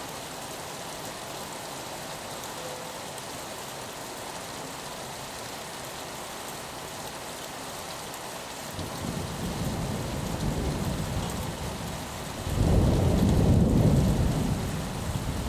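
Steady rain falling on a window, with a low rumble of thunder coming in a little over halfway through and swelling much louder near the end.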